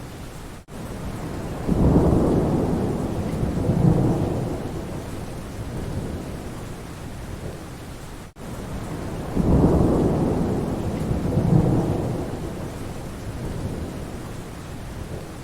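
Steady rain with low rolls of thunder that swell up twice, each lasting a couple of seconds. The sound briefly drops out twice, once near the start and once about eight seconds in.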